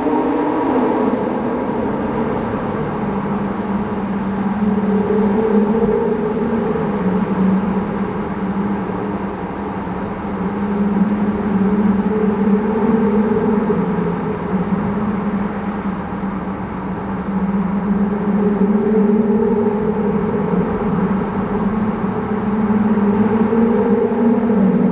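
Porsche 911 GT3 RS flat-six engine and exhaust running at steady moderate revs. The pitch drops at the start, then holds, rising and falling only slightly as the sound swells and eases.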